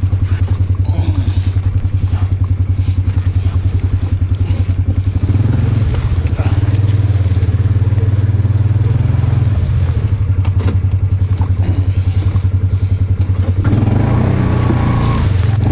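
Engine of a Polaris off-road vehicle running steadily under way, a fast low pulsing note that picks up a little about five seconds in, with a few short knocks from the ride.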